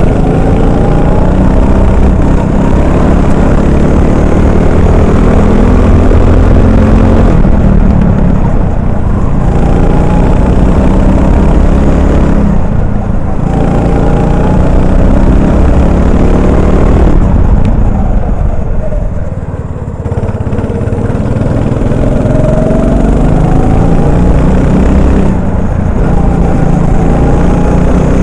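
Honda 390 four-stroke kart engine heard onboard at racing speed, its pitch climbing as the kart accelerates down the straights and dropping each time the driver lifts for a corner, several times over; the longest lift comes about two-thirds of the way through.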